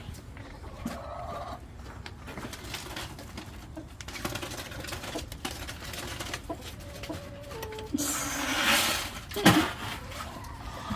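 Chickens clucking softly, with a brief rustling clatter and a knock near the end.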